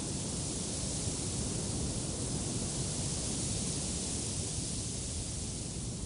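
Wind blowing steadily: a continuous rushing hiss over a low, uneven rumble, with no distinct events.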